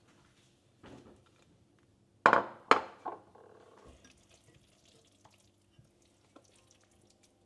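Kitchenware clinking and knocking: a light knock about a second in, two loud sharp clinks around two and a half seconds in, then faint small clicks.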